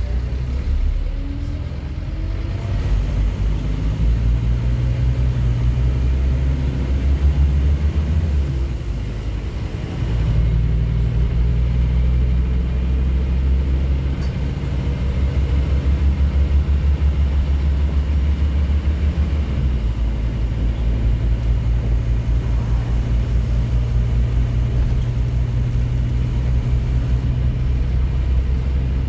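Scania N230UD OmniCity double-decker bus's diesel engine pulling under load, rising in pitch over the first few seconds. It eases off briefly about nine seconds in, then pulls again, and the note shifts again at a gear change near twenty seconds.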